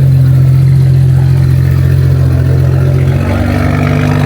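A car engine running steadily with a low, even drone, its pitch stepping up slightly about three seconds in.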